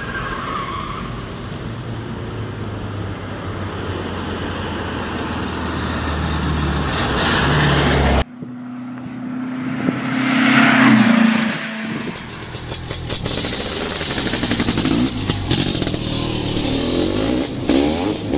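Car engine running steadily and growing louder, cut off abruptly about eight seconds in. It is followed by a whoosh and then a run of crackling and popping.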